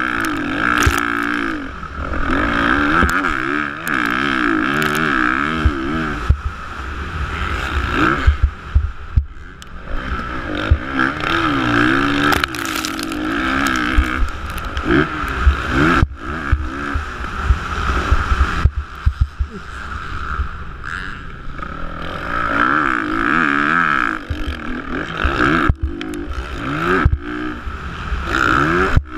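Motocross bike engines racing, repeatedly revving up and dropping back in quick swings as they accelerate and back off, with frequent low thumps and rumble at the microphone.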